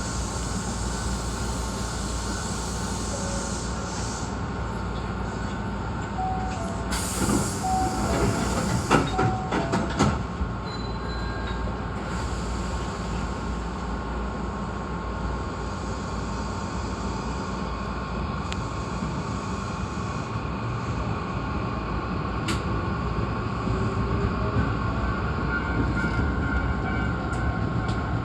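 Hankyu 8300-series electric commuter train running along the rails, heard from inside the front of the train: a steady rumble and hiss with a constant whine. About seven seconds in there are a few seconds of louder clattering and clicks.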